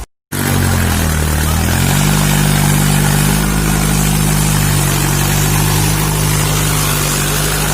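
Tractor engine running hard while pulling a rotavator through flooded paddy mud: its speed sags about a second in under the load, recovers, then holds steady. The sound starts after a brief dropout.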